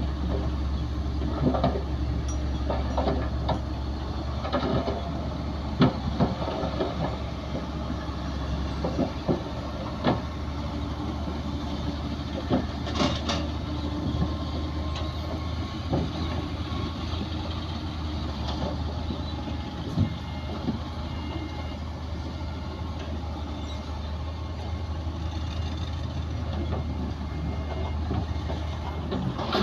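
Diesel engines of heavy earthmoving machinery running steadily at a low drone, with scattered metallic clanks and knocks, a cluster of them in the first few seconds and another about 13 seconds in.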